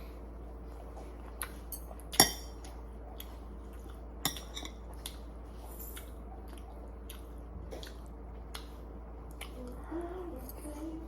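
Eating utensils clicking against dishes: a few separate clicks, the loudest about two seconds in with a short ring, over a steady low hum.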